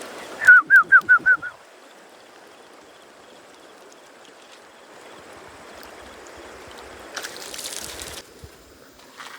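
A bird gives a quick run of about six short falling notes, lasting about a second, near the start. After it comes a faint, steady sound of running water, with a brief rush of noise about seven seconds in.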